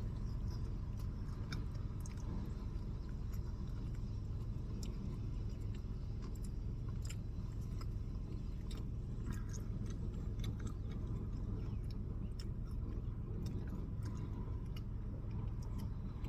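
A person chewing and biting food, with scattered small crunchy clicks, over a steady low rumble.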